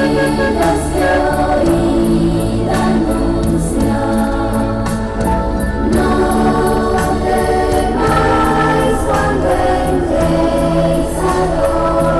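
A choir singing, held chords in several voices.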